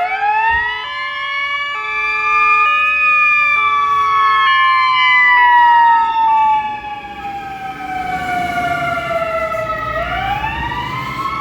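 Fire engine siren wailing as the Scania P360 fire tender goes out on an alarm call: one long slow wail that falls gradually, then starts rising again near the end. A two-note hi-lo tone alternates about once a second under it for the first six or seven seconds, and the sound is loudest around six seconds in before it drops off.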